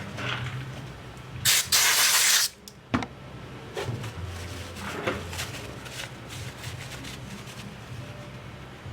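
Compressed-air duster spraying dust out of a MacBook Pro's insides: one loud hiss about a second long about a second and a half in, with shorter, fainter hisses before and after it.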